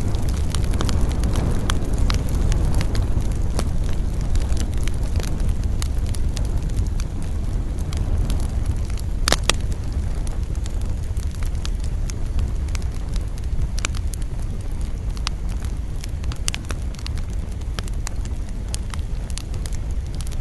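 Wood campfire burning, crackling with frequent sharp pops over a steady low rumble; one louder pop about nine seconds in.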